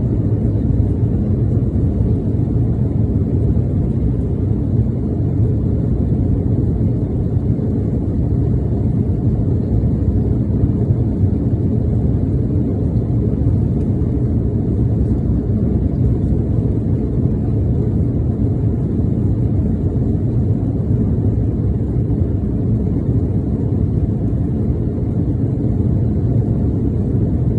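Steady low rumble of an Embraer 175 airliner's twin GE CF34 turbofans and airflow after takeoff, as it climbs out, holding an even level throughout.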